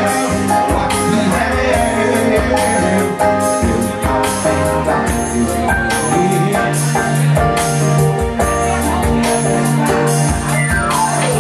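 A live band playing a song with a steady beat, with singing.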